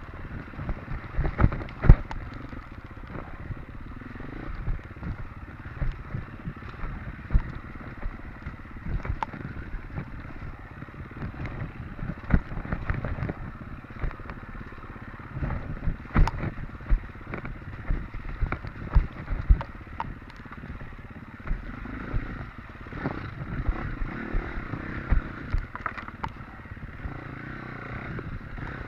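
Off-road motorcycle running while being ridden over rough ground, with many short sharp knocks and clatters from the bumps.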